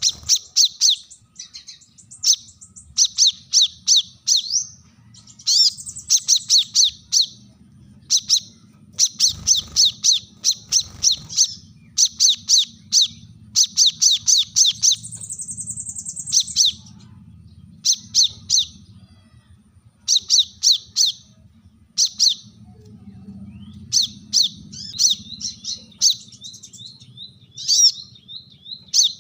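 Brown-throated sunbird (kolibri kelapa) giving sharp, rapid chirping calls in repeated runs of a second or two with short pauses between them. Around the middle, a higher buzzy trill lasts about a second and a half. These are challenge calls to a rival.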